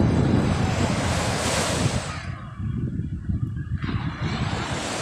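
Sea waves washing onto the shore, with wind rumbling on the microphone. One wash fades about two seconds in and the next surges in near four seconds.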